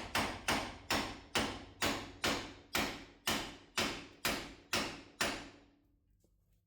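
Steady, repeated hammer blows on metal, about twelve strikes at roughly two a second, each ringing briefly. This is a hammer being used to drive loose a stuck part of a Mitsubishi Pajero's front suspension or steering. The striking stops a little over five seconds in.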